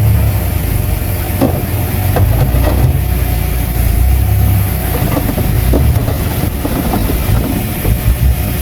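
Bulldozer diesel engine running under load, a steady heavy rumble with a few scattered metallic knocks.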